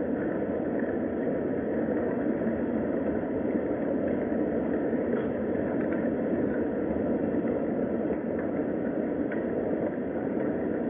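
Steady rain, an even rushing hiss with faint scattered drop ticks.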